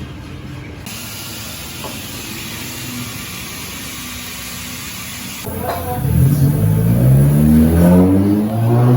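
Car engine revving up over a steady hiss: from about five and a half seconds in, its note climbs steadily and grows loud, still rising at the end.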